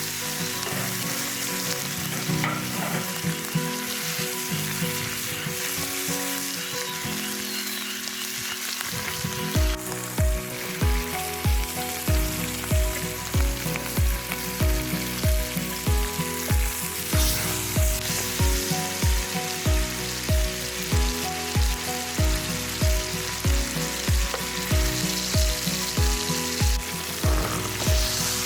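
Steak sizzling as it fries over a campfire, a steady hiss, under background music whose steady drum beat comes in about nine seconds in.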